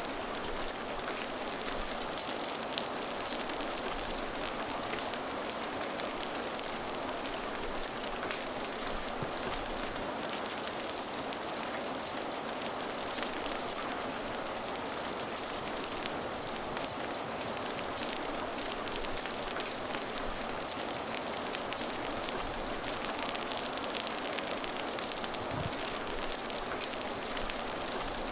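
Steady rain ambience, a constant even hiss, mixed with the small scattered pops and ticks of a crackling fire.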